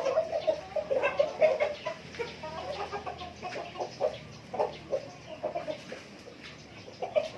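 Native chickens clucking: many short clucks, busiest in the first two seconds and growing sparser after about four seconds.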